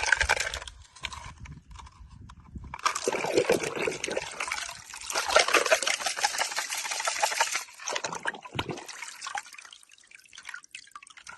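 Water splashing and trickling over toy vehicles being washed, with a crackly, bubbly texture. It comes and goes, is heaviest in the middle stretch and thins out near the end.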